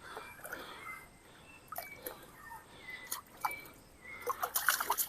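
Small water splashes and drips from a hooked piranha being pulled through the river surface, the splashing getting busier near the end.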